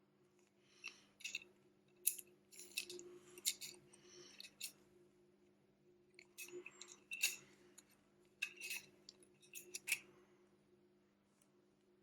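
Irregular small clicks and taps of hand tools on smartphone parts, in two runs with a short lull in between, over a steady low hum.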